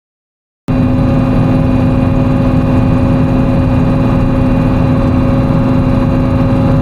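Timberjack 608 forestry machine's diesel engine running at a steady speed, with a constant hum held at one pitch. It cuts in abruptly under a second in, after near silence.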